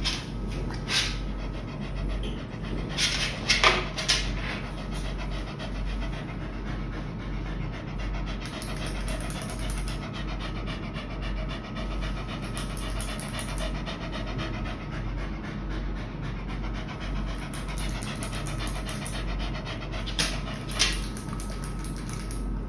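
A dog panting steadily, with a few short sharp sounds about a second in, around three to four seconds in, and twice near the end.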